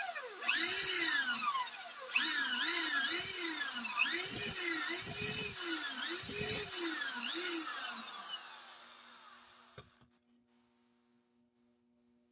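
Handheld electric drill pulsed on and off again and again, its motor whine rising and falling with each squeeze of the trigger, while drilling shallow holes into a steel motorcycle clutch plate. A few low thuds come in the middle, and the last spin-down fades out before the end.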